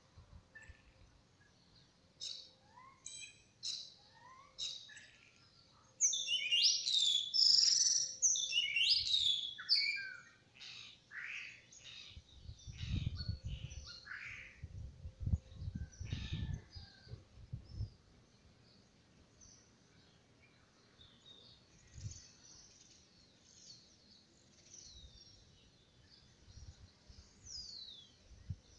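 Songbirds chirping and trilling, busiest and loudest from about six to ten seconds in, with several low rumbling thumps a few seconds later.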